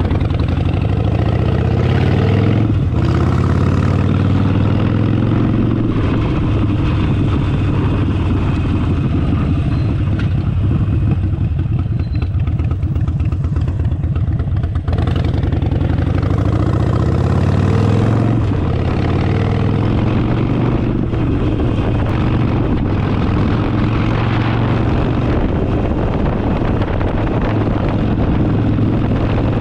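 Harley-Davidson Forty-Eight's air-cooled 1200 V-twin running steadily, its pitch rising and falling a few seconds in and again about halfway through as the revs build and drop.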